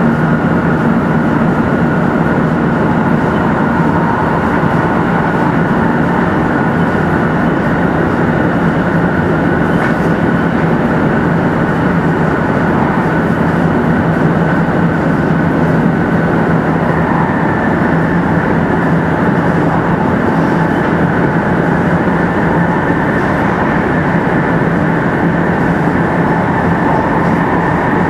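Running sound inside a 500 series Shinkansen motor car with Toshiba GTO VVVF inverter drive, travelling at speed: a loud steady rumble of wheels and rushing air, with a few faint steady tones over it.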